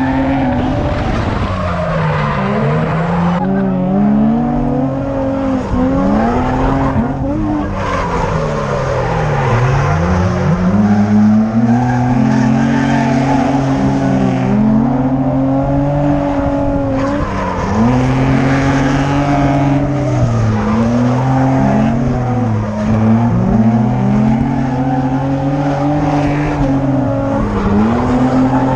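Drift car engine under hard throttle, its pitch swinging up and down every second or two as it is revved through a drift, with tyres skidding.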